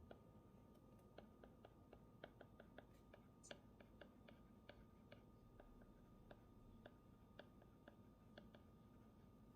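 Faint, irregular clicks, about two to four a second, from desk work while studying, over a faint steady hum.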